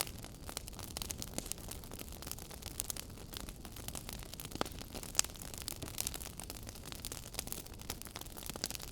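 Wood fire crackling in a fireplace: irregular snaps and pops over a low steady rumble, with a couple of louder pops about halfway through.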